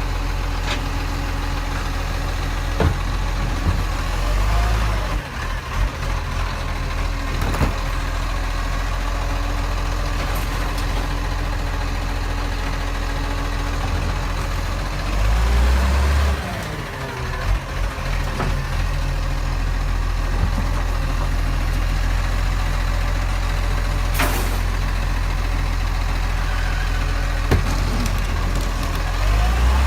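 Garbage truck engine running steadily at idle, with a few sharp clicks and knocks and a brief swell in level about halfway through.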